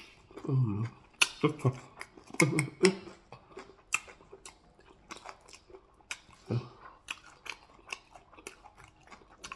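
Close-miked open-mouthed chewing of soup-soaked beef: many wet smacks and clicks of lips and tongue, with a few short hums in the first three seconds.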